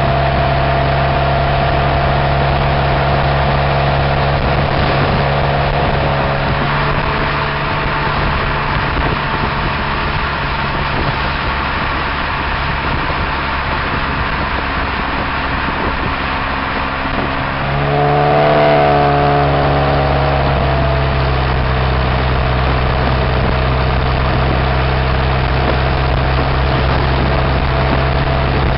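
Exhaust of a 2002 Pontiac Grand Am's Ecotec four-cylinder, running without catalytic converter or resonator, heard close to the tailpipe. It runs steadily, with one brief rev that rises and falls about two-thirds of the way through.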